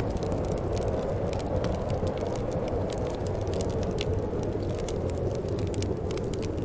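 Steady low wind noise with the frequent sharp crackle and pops of a wood fire burning.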